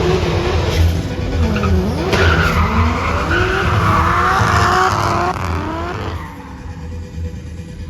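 Drift car sliding under power: the engine revs rise and fall over and over while the tyres squeal loudly, then the sound fades about six seconds in.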